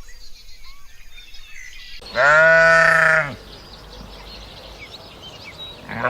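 Livestock bleating: one loud call of about a second, beginning about two seconds in, and another starting near the end, with small birds chirping in the background.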